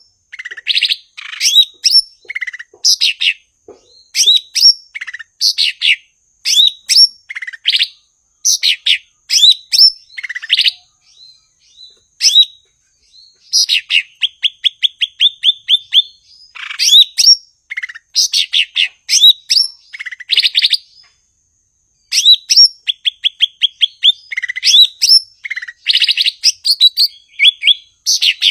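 Cucak ijo (green leafbird) singing in full voice: a continuous run of varied chirps, whistles and rising notes, with fast trills of short repeated notes, about eight a second, and brief pauses between phrases.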